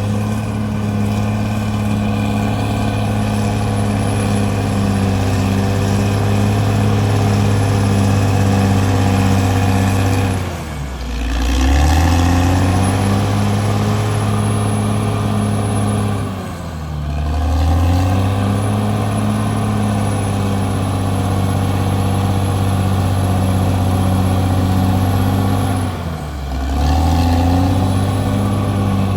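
Diesel engine of a CAT D6R crawler bulldozer running hard at steady high revs, sagging in pitch and loudness three times and then picking back up.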